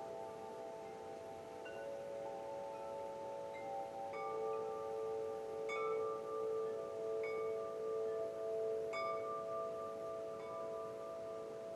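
Wind chimes ringing, struck again every second or two, their long tones overlapping.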